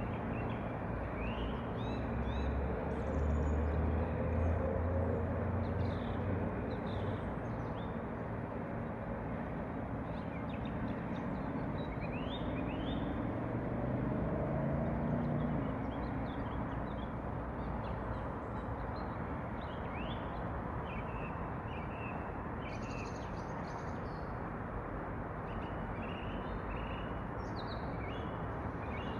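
Small birds chirping and calling in short, scattered notes over a steady low outdoor rumble. The rumble swells into a low drone twice, about a second in and again around twelve seconds.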